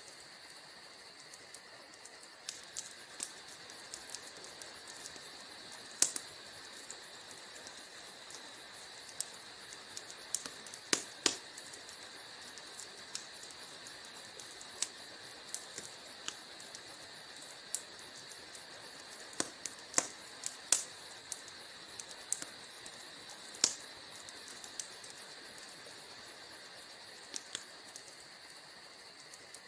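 Wood fire burning in a fireplace: a steady faint hiss with irregular sharp crackles and pops from the burning logs, a few louder snaps standing out.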